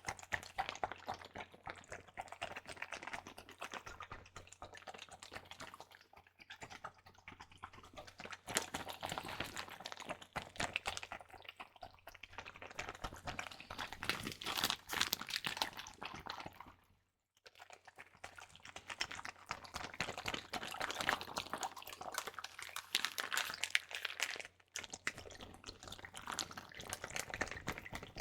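A plastic bag filled with water squeezed and kneaded close to the microphone: fast crackly crinkling of the plastic with water squishing and sloshing inside. It stops briefly about two-thirds of the way through.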